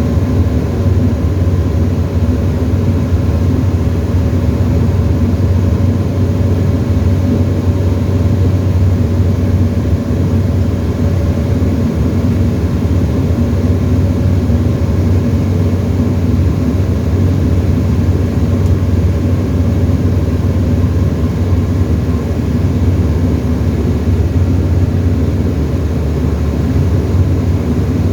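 Tecnam ultralight's engine and propeller droning steadily, heard from inside the cockpit, with an even pitch and no change in power.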